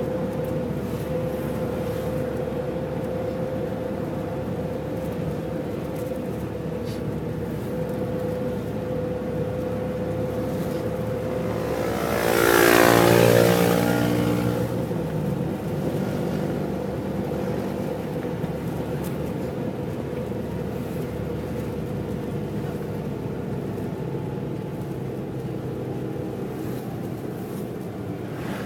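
Steady running of a vehicle's engine with road and wind noise. About halfway through, another vehicle goes by: its sound swells and drops in pitch as it passes.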